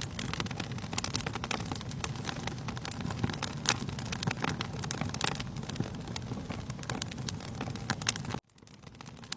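Wood fire in a fireplace crackling, with frequent sharp pops over a low steady rumble of the flames. The sound cuts out suddenly near the end and fades back in.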